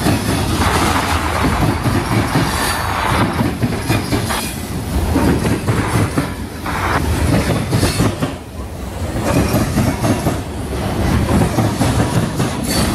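Freight cars of a CSX mixed freight train rolling past close by, their steel wheels clattering over the rail diamond crossing above a steady heavy rumble.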